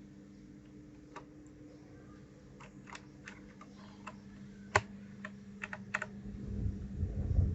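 Keys clicking on a 1st Player DK 5.0 mechanical keyboard, pressed in an irregular scatter with one sharper click about five seconds in. A low rumble builds near the end over a steady low hum.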